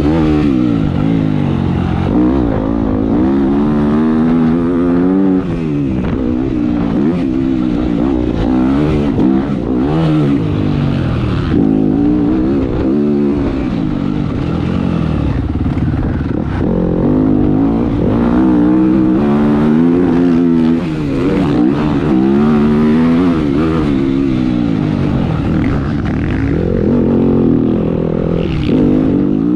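Motocross dirt bike engine revving hard and easing off over and over as it is ridden around the track. Its pitch rises and falls every second or two.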